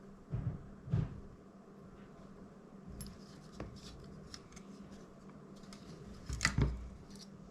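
Small hand tools clicking, tapping and scraping against the plastic parts of a DJI Mini 2 drone while a glued-in part is worked loose. There are scattered light clicks, with a louder sharp knock about six and a half seconds in.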